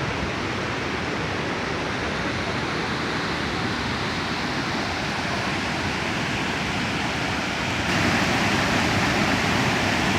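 Waterfall: steady rush of falling water, turning louder and brighter about eight seconds in.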